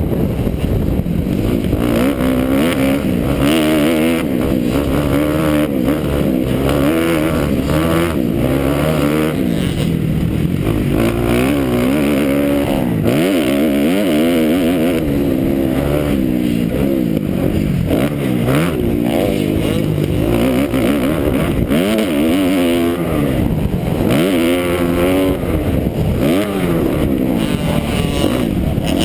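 2009 Kawasaki KX250F's four-stroke single-cylinder engine revving hard, its pitch rising and falling again and again as the rider accelerates and shifts on a motocross track, heard from on the bike.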